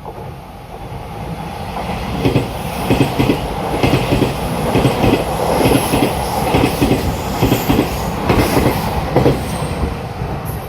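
A Puyuma tilting electric express train (TEMU2000) passing through the station. Its approach builds, then the wheels knock over the rail joints in a steady run of paired clicks, with a faint high squeal at times.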